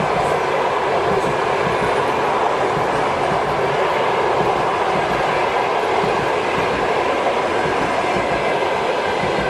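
Passenger train hauled by an EP2K electric locomotive passing at speed: a steady, unbroken rolling noise of its wheels on the rails.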